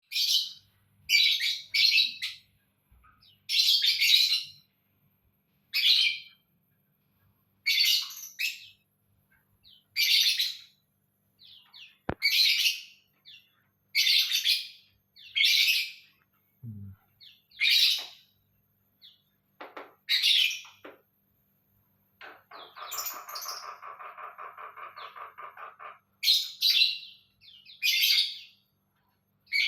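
Songbird singing short, high, chirping phrases about every two seconds, with one longer rapid rattling trill lasting a few seconds about two-thirds of the way through.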